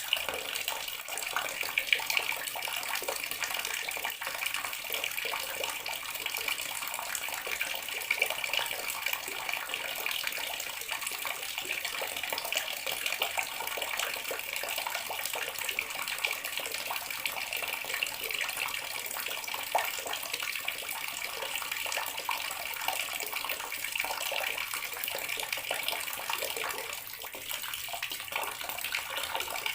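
Bathroom water tap running steadily, the stream splashing into the basin or tub below.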